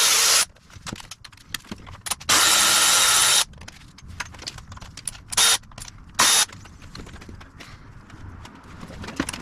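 A power tool run in four short bursts, the second about a second long and the last two brief, with small clicks and knocks of tools between them.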